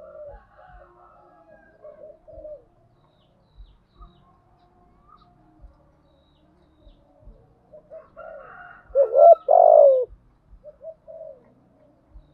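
Spotted dove cooing: soft, low coo notes repeated at intervals, then two loud coos about nine seconds in.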